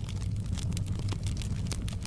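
Campfire burning, with frequent small crackles and pops over a steady low rumble of the flames.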